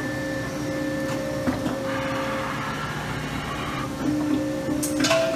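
PM-120LT 120-ton CNC hydraulic punching machine running a test program: a steady hum from its hydraulic unit, with the whine of the CNC table's servo motors moving in short stepped runs in the second half. A short burst of noise comes near the end.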